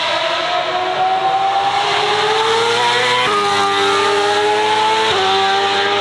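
Race or performance car engine accelerating hard, its pitch climbing through the revs with two quick upshifts, about three seconds in and again near the end, each dropping the pitch before it climbs again.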